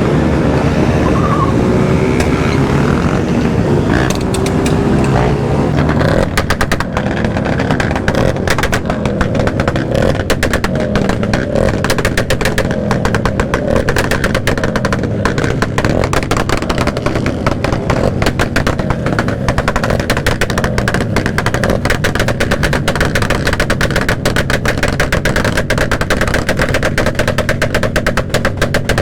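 Motorcycle engines running. About six seconds in, the sound turns into a rapid, continuous stream of sharp pops.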